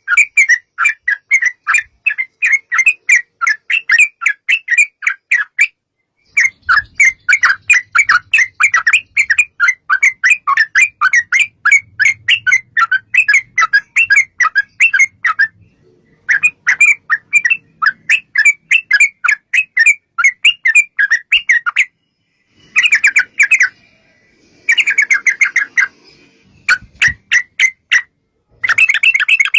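Yellow-vented bulbul (trucukan) song: long runs of rapid, repeated chirping notes, several a second, broken by a few short breaks.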